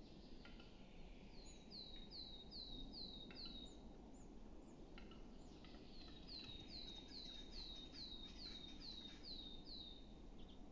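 A songbird repeats one short, high, hooked note about three times a second, a run of five early on and a longer run of about ten later. A few sparse dry clicks underneath fit the knocking song of a displaying western capercaillie cock.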